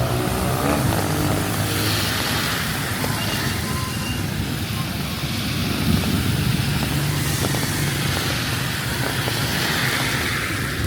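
Steady rain hiss with motor-vehicle engines running close by; an engine note rises at the very start.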